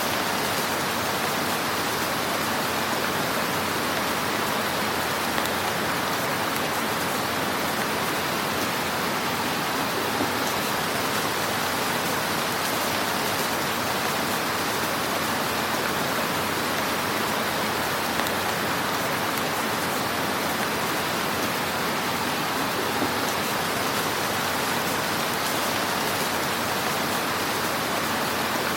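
Fire burning in a fireplace: a steady crackling hiss with a few slightly louder pops.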